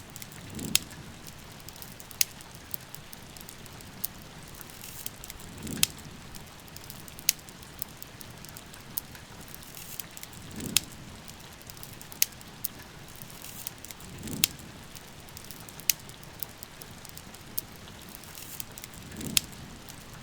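Wood fire crackling in a fireplace, with sharp irregular pops, over a steady hiss of falling rain. A soft low swell comes about every five seconds.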